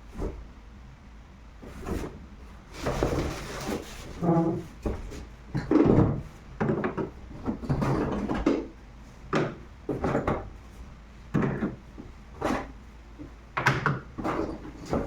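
Packaging and parts being handled: irregular scraping, rubbing and knocks, with a short squeak about four seconds in. The vacuum motor is not running.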